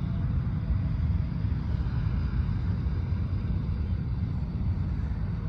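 Steady low rumble of airport background noise, the sound of aircraft and traffic heard from the open viewing area mixed with wind buffeting the microphone.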